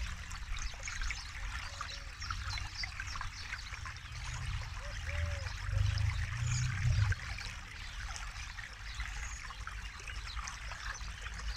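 Forest river flowing, a steady dense trickling and splashing of water, with a low rumble that swells for a few seconds around the middle.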